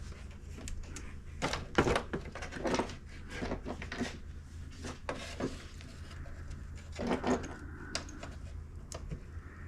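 Irregular knocks, scrapes and rustles of things being handled on a work surface, loudest about two seconds in and again around seven seconds, over a low steady hum.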